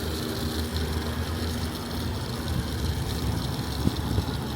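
Gas pump nozzle dispensing fuel into a car's tank: a steady low hum with a light hiss of flowing fuel.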